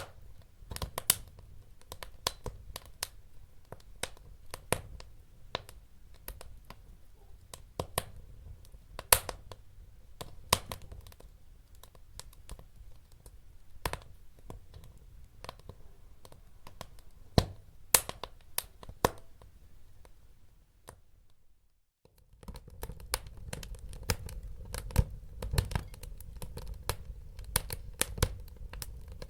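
Wood fire crackling: sharp, irregular pops and snaps over a low rumble of burning. The sound briefly cuts out about two-thirds of the way through, then resumes with a fuller low rumble.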